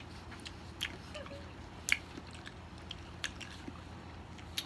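Wet mouth sounds of someone biting into and chewing a calamansi: a few short, sharp smacking clicks, the loudest about two seconds in, over a faint steady hum.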